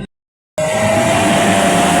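Dirt-bike engines running loud and steady, with one held engine note drifting slightly in pitch. The sound starts abruptly about half a second in, after a brief silent gap.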